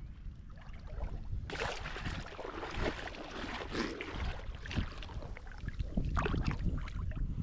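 Wind buffeting the microphone over waves washing on the beach, a louder rush of noise setting in about a second and a half in.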